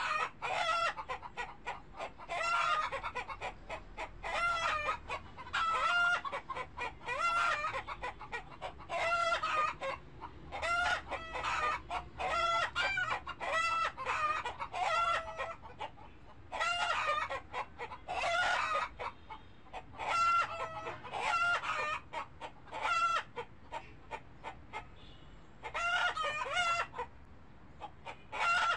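Chickens calling: a near-continuous run of short, pitched clucks and squawks with brief pauses between bursts.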